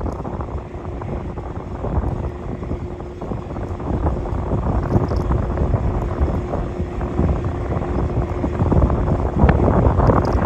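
Boeing 737 jet engines rumbling with wind buffeting the microphone, with a steady low hum under the noise. It grows louder toward the end.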